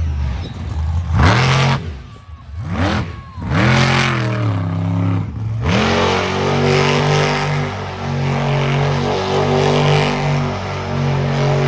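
Monster truck engine revving in several quick throttle blips, the pitch rising and falling each time, then held at high revs for about six seconds before dropping off at the end.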